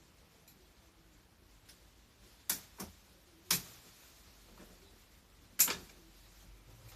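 Four sharp snips as overgrown garden stems and branches are cut: two close together about two and a half seconds in, another a second later, and the loudest near the end.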